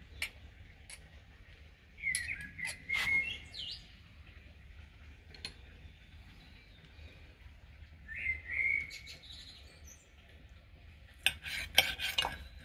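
A bird chirping in two short phrases, about two seconds in and again about eight seconds in. Knife and fork click against a plate now and then, with a quick run of clinks near the end that is the loudest sound.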